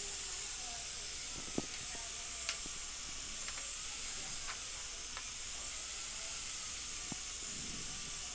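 Dental handpiece with a burr cutting a slot into the side of a metal implant abutment: a steady hiss with a faint motor whine that drifts slowly up and down in pitch, and a few light clicks.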